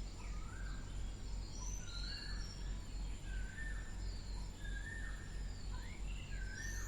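Faint background birdsong: short chirping calls roughly once a second over a steady low hum, with no printer mechanism running.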